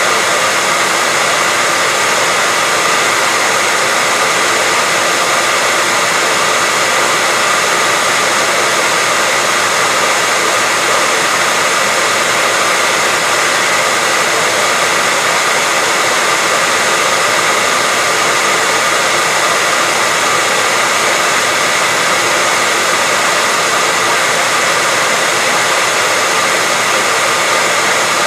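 Hair dryer running steadily: a constant whooshing noise with a faint, even whine and no change in speed.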